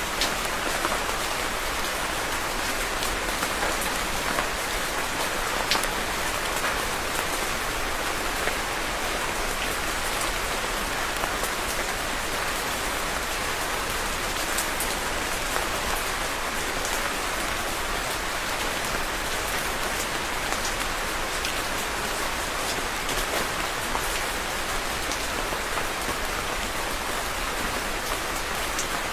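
Steady rain falling, a dense even hiss with the small ticks of single drops striking a surface.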